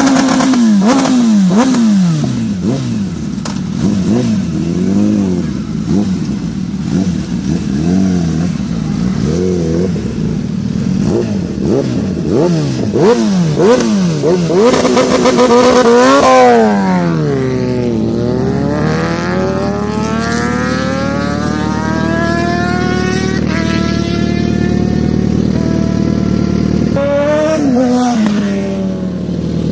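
Superbike engine revving in quick throttle blips, its pitch rising and falling many times, then accelerating hard with the pitch climbing and dropping back at each upshift, twice, before more quick blips near the end.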